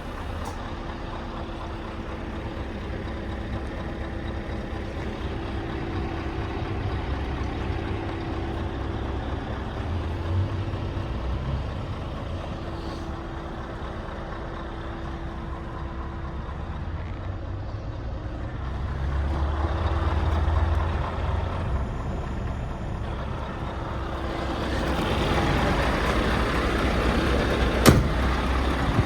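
Scania R580's V8 diesel engine running steadily, swelling louder twice, about two-thirds of the way in and again near the end. There is one sharp click shortly before the end.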